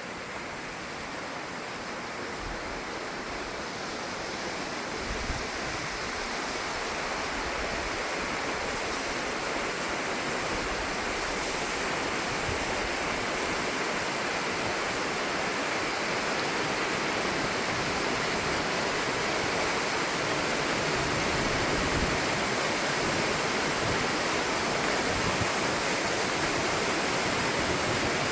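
River rapids rushing over boulders: a steady rush of white water that slowly grows louder.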